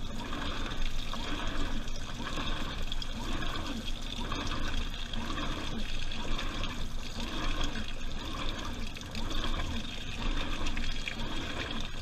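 Washing machine drum turning with water and laundry sloshing in it during the wash, a rhythmic swish about once a second.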